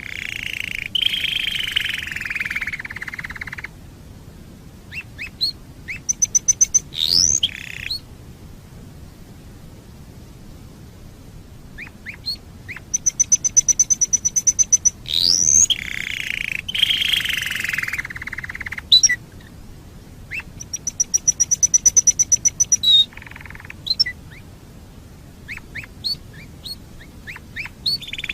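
Canary singing: fast trills of high, rapidly repeated notes and quick rising sweeps, then long, rolling notes that fall in pitch, broken by short pauses. The same song phrase comes round twice, about fifteen seconds apart.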